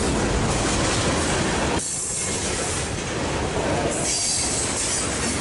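Freight cars rolling past close by: a loaded centerbeam lumber flat car and then tank cars, with steady wheel-on-rail rolling noise that dips slightly about two seconds in.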